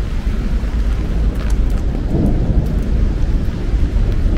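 Rain falling on a city street, over a steady heavy low rumble.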